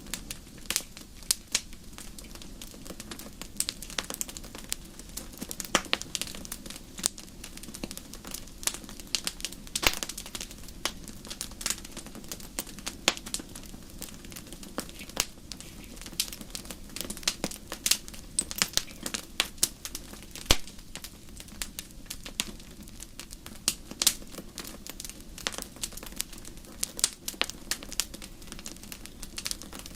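Crackling wood fire: irregular snaps and pops, several a second, over a steady low rumble of the flames.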